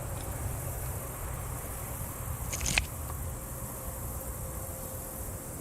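Insects chirring steadily and high-pitched, over a low rumble, with one sharp click a little before halfway through.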